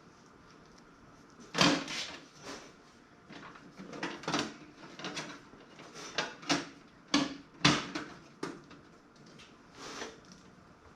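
Irregular knocks, clunks and rattles of toaster oven case parts being handled and fitted together, with the loudest knocks about a second and a half in and twice near the middle.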